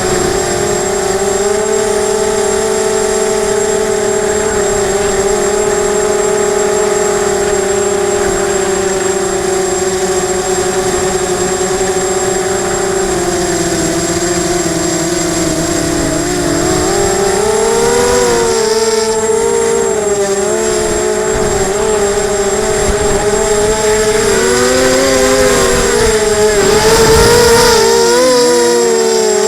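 Emax 250 racing quadcopter's motors and propellers whining in flight, heard close up. Steady at first, then rising and falling in pitch over the second half as the throttle changes.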